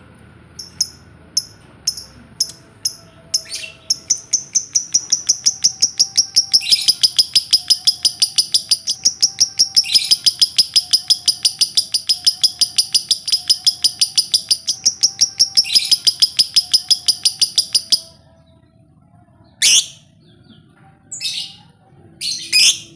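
Lovebird ngekek: a few separate high chirps, then a long unbroken chattering trill of rapid high notes, about six a second, lasting some fourteen seconds. It breaks off into a few sharp single calls near the end.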